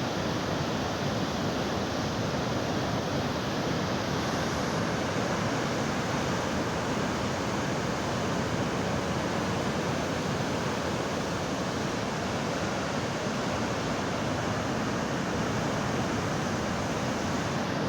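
Steady rush of fast-flowing floodwater on the swollen Yamuna river.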